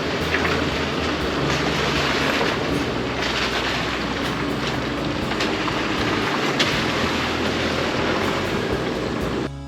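Chevy Colorado ZR2 AEV Bison pickup driving on an unpaved trail: steady engine and tyre noise with a few short knocks and rattles.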